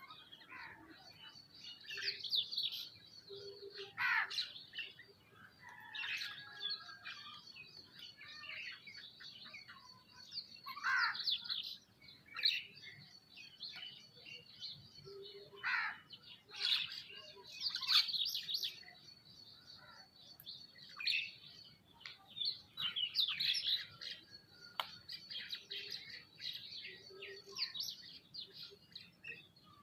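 Several birds chirping and calling, many short overlapping chirps coming in irregular clusters, over a faint steady high-pitched tone.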